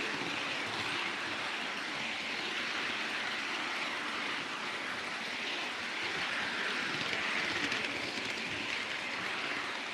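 A train running on rails: a steady rolling whir that swells and eases a little.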